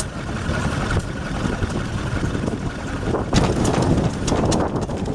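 An engine runs steadily under a dense rumble of wind on the microphone. Sharp knocks begin about three seconds in.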